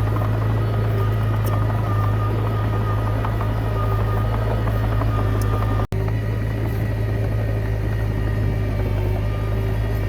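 Komatsu D20P bulldozer's diesel engine running steadily as a constant low drone, with light clicks over it. The sound drops out for an instant about six seconds in.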